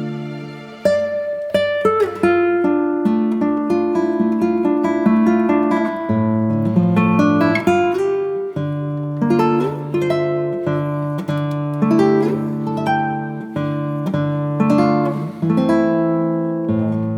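Background music: plucked acoustic guitar playing a slow sequence of notes and chords.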